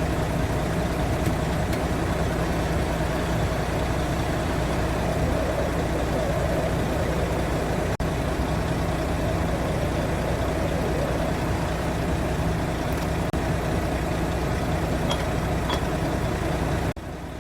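Truck engine idling steadily, a low even drone that drops away just before the end.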